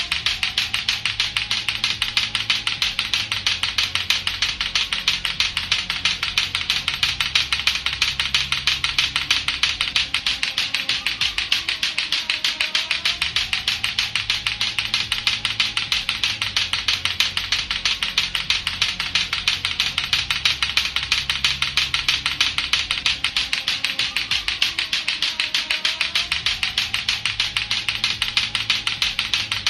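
Latto-latto clacker toy, two hard plastic balls on a string knocking together, in a rapid, steady, unbroken run of sharp clacks. Faint music runs underneath.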